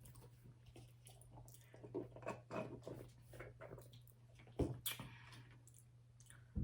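A person chewing a mouthful of Mexican pizza close to the microphone: soft, wet chewing with small irregular crackles, and one sharper click about two-thirds of the way through.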